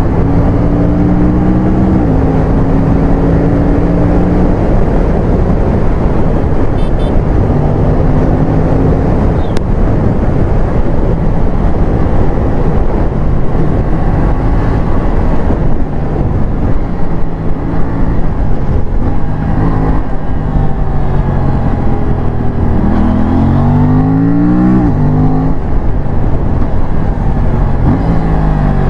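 Aprilia RS457's 457 cc parallel-twin engine running under way, mixed with strong wind noise. The note holds mostly steady, then in the second half climbs in pitch in quick runs broken by gear changes as the bike accelerates.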